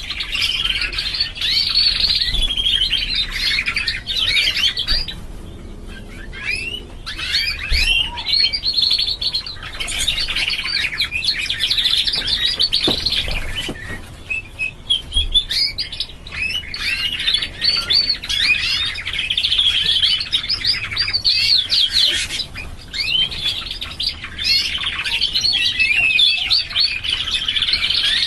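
Domestic canary singing long phrases of rapid trills and warbles, broken by short pauses about 5, 14 and 23 seconds in.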